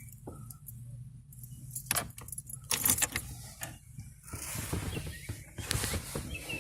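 1987 Pontiac Sunbird engine idling with a low, steady hum, with scattered clicks and rattles over it.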